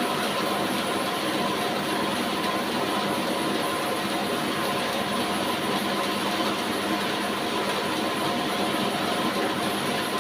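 Horizontal band sawmill running: a steady, unchanging machine noise with a constant hum and whine.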